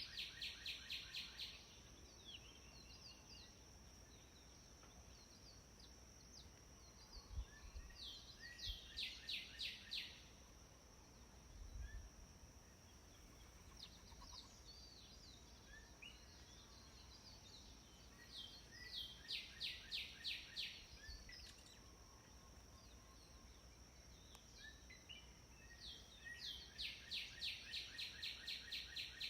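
A songbird repeats a short song of rapid, evenly spaced high notes, about five a second for a second or two, every eight to ten seconds. A faint steady high-pitched tone runs underneath.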